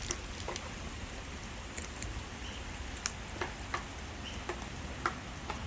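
Steady rain with scattered light taps and ticks at irregular intervals.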